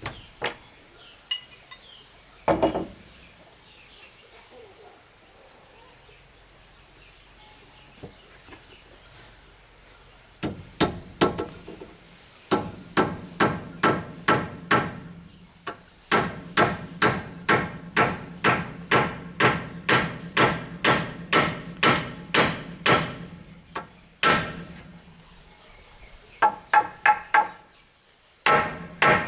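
Hammer blows in steady runs of about two a second, each with a short ring, with a few scattered knocks in the first few seconds and brief pauses between runs.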